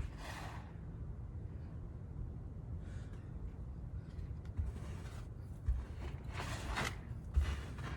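Snow crunching and scraping in about six irregular half-second strokes, over a steady low rumble.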